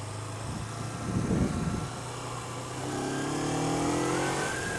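Engines in traffic heard from a motorcycle: a steady low engine hum, a brief deep rumble about a second in, then from about three seconds an engine speeding up with a rising pitch, and a higher whine rising near the end.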